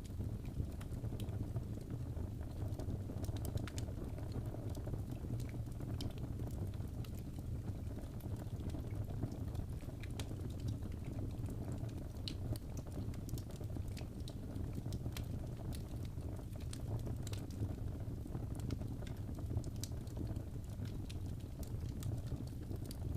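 Wood fire burning in a fireplace: a steady low rumble of flame with irregular, scattered sharp crackles and pops.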